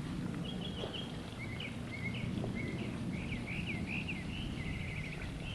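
Northern mockingbird singing a string of short, varied phrases, each different from the last, with a quick run of rapidly repeated notes near the end, over a steady low rumble.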